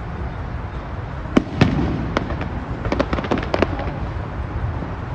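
Fireworks going off over a low steady rumble: two sharp bangs about a second and a half in, then a quick run of crackling pops around three seconds in.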